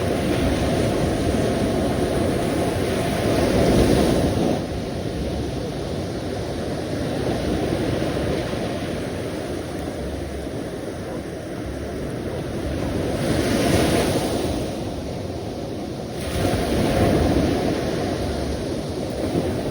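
Sea waves washing onto the shore in a steady rush, surging louder about four seconds in and twice more near the end as larger waves break.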